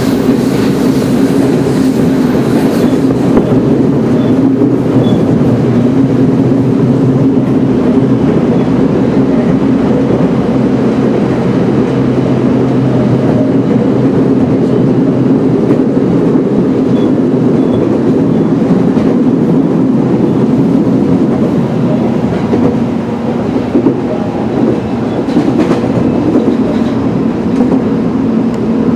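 Steady running noise heard from inside a Tokyo Metro 05N-series commuter train car in motion: a continuous rumble of wheels on rails with a constant low drone, easing off slightly for a moment near the end.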